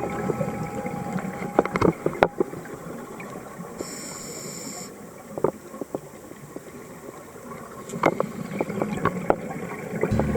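Underwater sound picked up by a dive camera: a steady hiss with scattered sharp clicks and crackles, and a brief high-pitched band about four seconds in.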